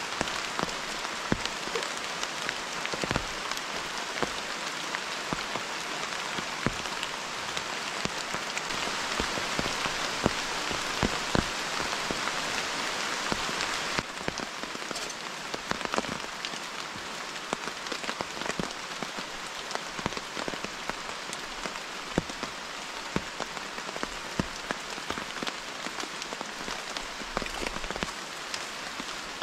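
Steady rain falling on leaf litter and a tarp shelter, an even hiss with many sharp separate drop taps. The hiss drops a little about halfway through.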